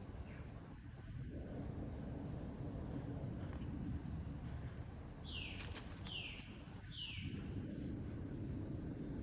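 Rainforest insects droning steadily in two high, even tones over a low rumble. About five seconds in, a bird gives three short, quick notes, each falling in pitch.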